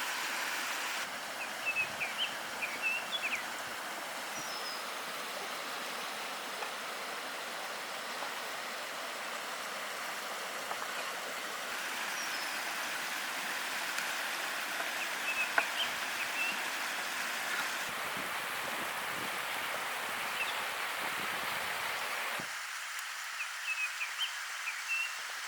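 Steady outdoor background hiss with small birds chirping briefly now and then.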